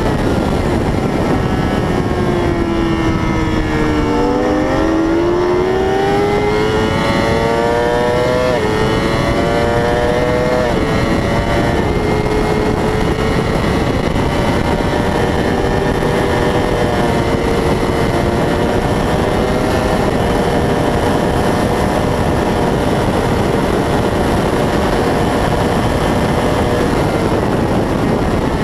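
600cc racing motorcycle engine at speed on a track. Its pitch falls for the first few seconds as it slows, then climbs hard through two upshifts, each a sudden drop in pitch. After that it holds high and fairly steady, over a constant rush of wind noise.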